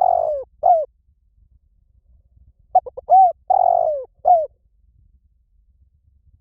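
Spotted dove cooing. The last notes of one call phrase come first. About three seconds in comes a full phrase: a few quick short notes, a rising-and-falling coo, a longer falling coo, then a short final coo.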